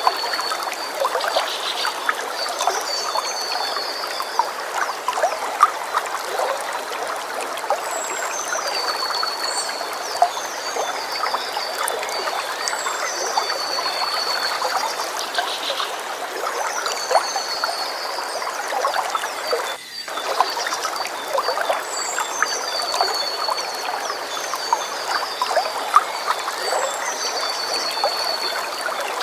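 Steady running water of a river, full of small splashes and trickles, with a high chirping song repeating every four to five seconds.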